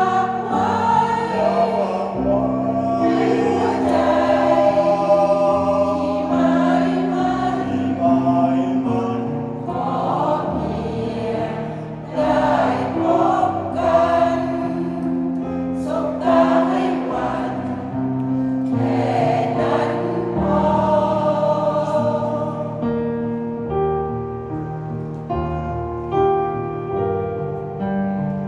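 A senior mixed choir singing a song with piano accompaniment. Near the end the voices stop and the piano plays on alone.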